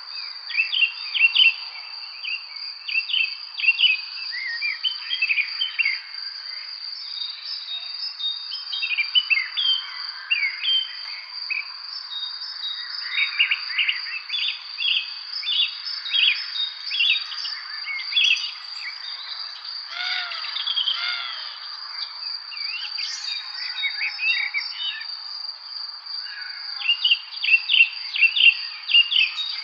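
Songbirds singing in an evening spring chorus, many short chirping phrases overlapping one after another. Beneath them runs a steady high insect trill and a soft background hiss.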